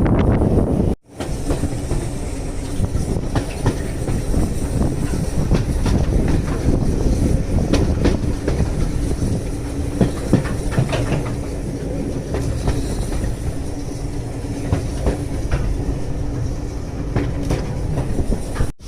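Railway carriage running along the track, its wheels clicking over the rail joints over a steady rumble.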